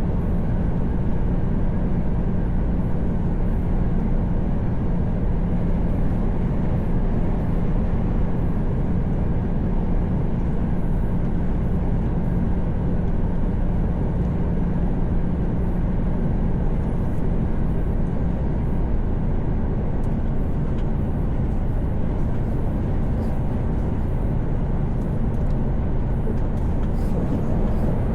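Mercedes-Benz Actros truck cruising on a motorway, heard from inside the cab: a steady engine drone with a constant low hum, mixed with road and tyre noise.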